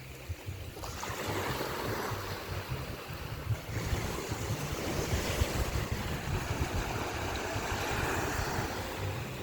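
Ocean waves breaking and washing up the beach, a steady surf hiss that swells about a second in and again near four seconds, with wind buffeting the microphone.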